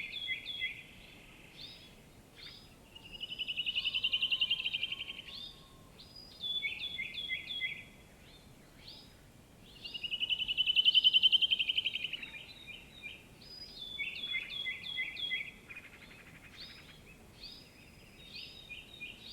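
Birdsong: series of short, quickly repeated falling notes, broken twice by a loud, rapid trill that swells and fades over about two seconds.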